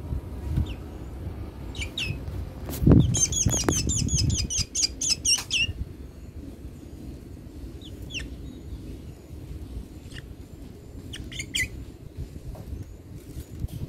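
A black bird chirping in short, high calls, with a fast run of repeated chirps, several a second, for about three seconds near the start. A low thump comes just as that run begins.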